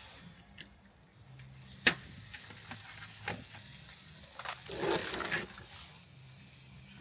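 A sharp crack about two seconds in, a few lighter clicks, and a crinkling, crunching rustle lasting about a second near the five-second mark.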